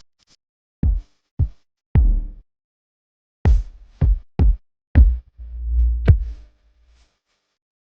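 Electronic intro music made of separate heavy drum-machine hits with deep bass, irregularly spaced with dead silence between them and one longer bass swell near the end.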